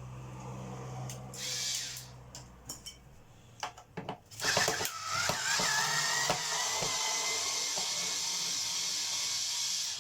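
Cordless drill/driver undoing the screws that hold the base plate: a short whir, a few clicks and knocks of handling, then the motor running steadily for several seconds with a slowly rising whine before it stops abruptly.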